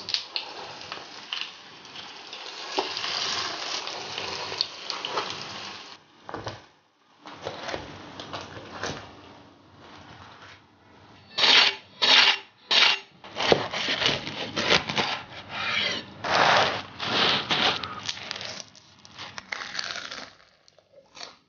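Chive pockets frying in oil in an electric baking pan, with utensil clicks. About halfway through come three loud crunchy bites into the crisp pan-fried crust, then steady crunching and chewing close to the mic.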